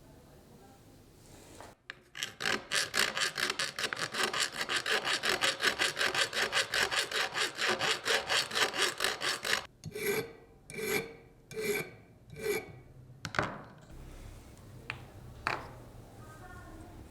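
An abrasive rubbing on the knife's metal blade in fast, even back-and-forth strokes, about five a second. After roughly eight seconds it slows to four spaced strokes, then a few light clicks.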